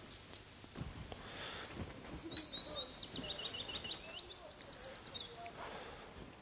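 A small songbird singing faintly behind a quiet background hiss: phrases of quick, repeated high chirps that shift pitch a few times, strongest from about two seconds in.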